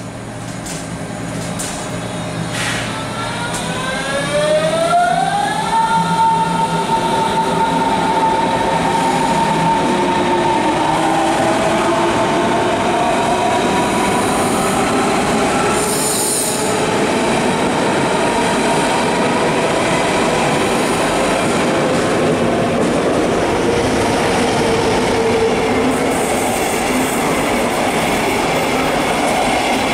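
Berlin S-Bahn class 481 electric train pulling out, its traction motors giving a whine that rises in pitch over the first few seconds and then holds steady as the cars run past with loud wheel-on-rail noise. There is a brief high screech about halfway through, and near the end a DB Regio double-deck train passing on the next track adds to the rail noise.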